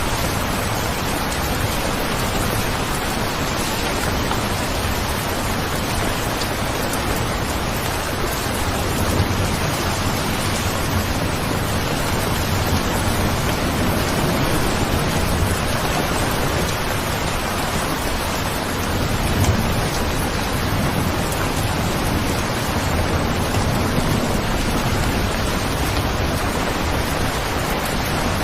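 Steady rain, a dense even hiss, with a low rumble underneath that swells now and then.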